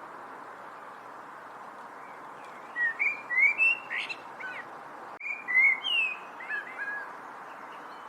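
A songbird singing two quick phrases of slurred, whistled notes, each about two seconds long, over a steady background hiss.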